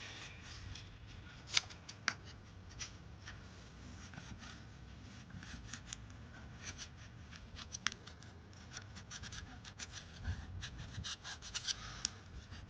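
Faint, irregular scraping and scratching with scattered clicks: a hand scraper taking old loose paint off a tractor starter motor.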